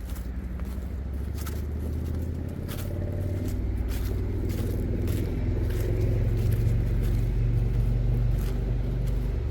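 A motor vehicle's engine running nearby, a steady low hum that grows gradually louder, with light clicks over it.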